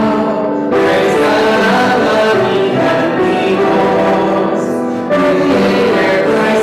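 Choir singing a hymn in sustained phrases, with a short break between phrases about a second in and another about five seconds in.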